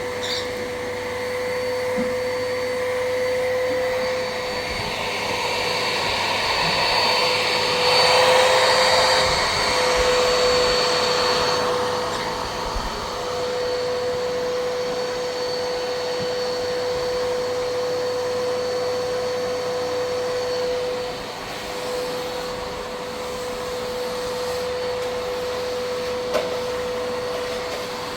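A small electric motor running steadily with a constant whine, its rushing noise swelling for a few seconds about a third of the way in.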